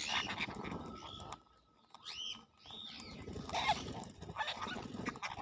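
A pet parrot calling and chattering, with two short arched calls that rise and fall, about two seconds in.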